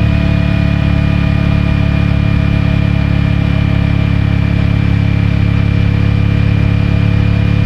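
CFMOTO 450MT's stock-exhaust parallel-twin engine running at a steady, unchanging pitch, with no revving or gear changes, picked up by a mic in the rider's pocket.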